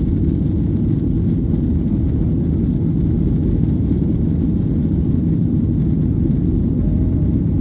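Airliner engines and airflow making a loud, steady low rumble, heard from inside the passenger cabin during takeoff.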